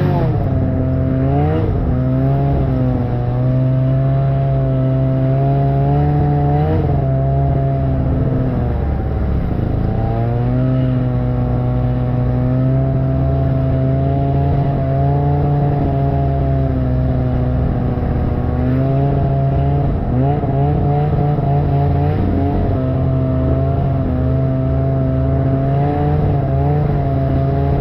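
Snowmobile engine running at steady throttle. Its pitch dips and climbs back a few times, about a second in, around ten seconds in and near twenty seconds, as the throttle eases off and is opened again.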